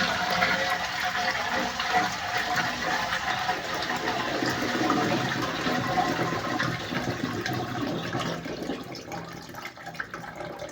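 Toilet cistern refilling after a flush: water runs steadily through the ball-float fill valve and grows quieter near the end as the tank nears full.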